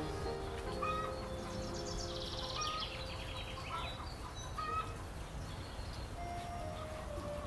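Small birds chirping, with a fast trill that falls in pitch about two seconds in, over a steady low outdoor rumble.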